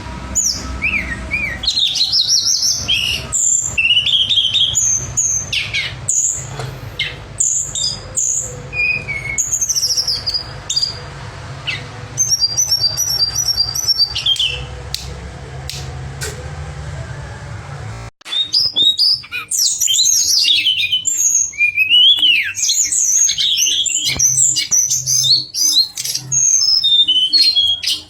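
Tledekan songbird singing: rapid, varied high-pitched chirps and whistled phrases over a low hum, with a quick run of repeated notes about twelve seconds in. About eighteen seconds in the sound cuts abruptly to a denser, busier stretch of song without the hum.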